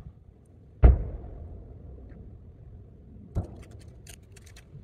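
Two booms from shakudama (one-shaku) aerial firework shells bursting more than 4 km away. The louder comes about a second in and the weaker one about two and a half seconds later, each trailing off in a rolling rumble.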